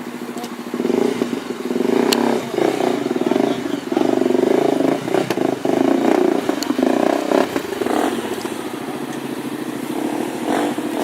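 Enduro motorcycle engine revved hard in a series of uneven throttle bursts, then easing back to a steadier, lower running for the last few seconds.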